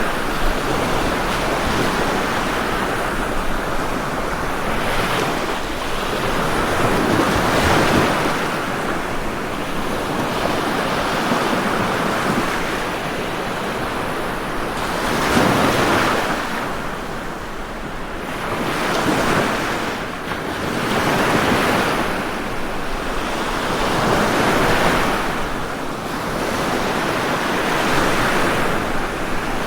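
Ocean surf: waves breaking and washing in one after another, rising and falling every few seconds over a continuous rush of water. The strongest break comes about halfway through.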